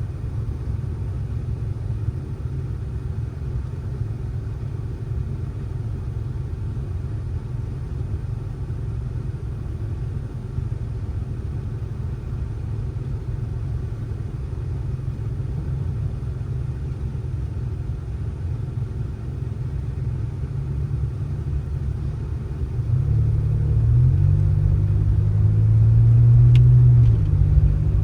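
Steady low rumble of a motor vehicle running. Near the end a clearer engine note joins in and the sound grows louder.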